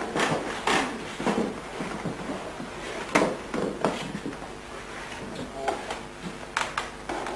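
About a dozen short, irregular knocks and rustles of handling in a small room, the loudest just after three seconds, over a steady hiss.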